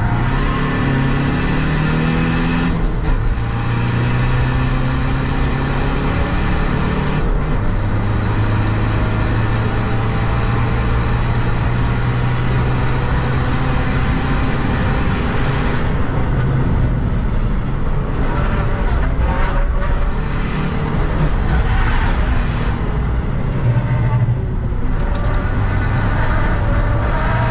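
Seat Ibiza FR's 2.0 TDI four-cylinder common-rail turbodiesel pulling hard at track speed, heard from inside the cabin over steady tyre and wind noise. The engine note climbs in pitch over the first few seconds, holds steady through the middle, and rises and falls near the end.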